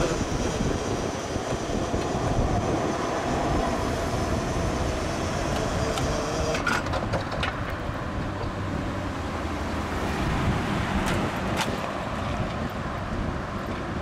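Freight train of tank cars rolling slowly on curved track: a steady rumble of wheels on rail, with a faint high squeal in the first half and a few sharp clanks later on.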